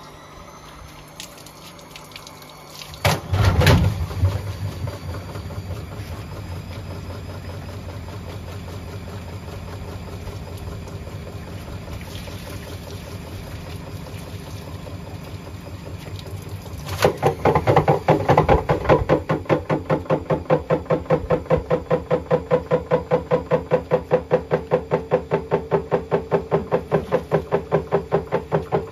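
Washing machine running: water pouring in over a steady hum. About halfway through, a loud, fast, rhythmic pulsing sets in.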